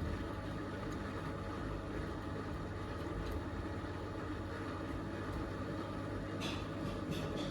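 Miele W3985 washing machine spinning its drum in the spin burst after the first rinse: a steady motor hum, with two brief rattles near the end.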